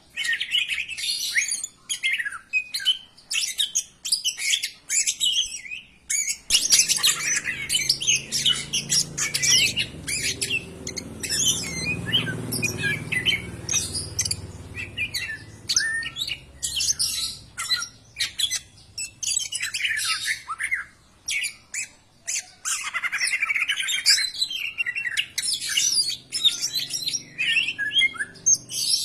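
Cucak ijo (green leafbird) singing a fast, continuous, varied song of short chirps, whistles and harsh squawks. A faint low hum sits underneath from a few seconds in.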